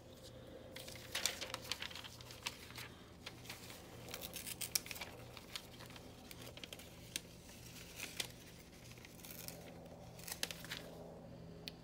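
Magazine paper being torn by hand into small pieces, in several short crackling bursts with pauses between them.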